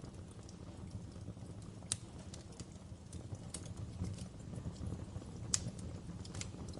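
Fire crackling in a fireplace: irregular sharp snaps and pops over a steady low rumble, the loudest pop about five and a half seconds in.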